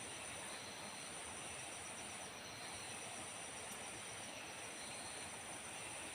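Steady high-pitched insect chorus in tropical forest, over a constant even hiss, with faint short high calls repeating about every two seconds.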